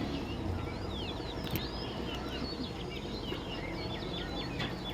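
Many parrots chattering together, a dense stream of short chirps and calls overlapping throughout, over a steady low background rumble.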